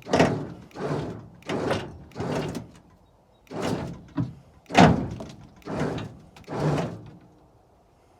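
A jack being pumped by hand: about eight strokes of the handle, each a short scraping stroke, with a brief pause about three seconds in.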